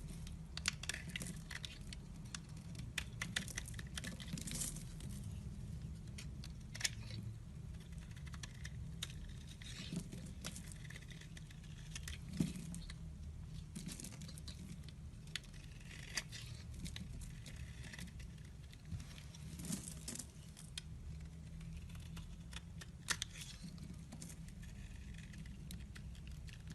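Knife cutting and scraping a bar of dry soap: irregular crisp crackling with scattered small sharp snaps, over a faint steady low hum.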